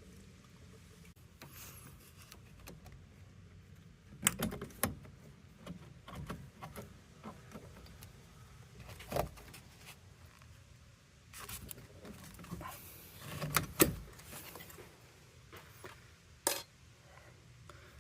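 Scattered clicks and knocks from parts of the heat pump's water filter being handled, a handful spread irregularly, the loudest a little after the middle.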